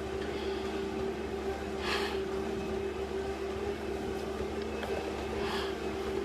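Steady motor hum with two held tones, with short hissy breaths about two seconds in and again near the end, from someone climbing.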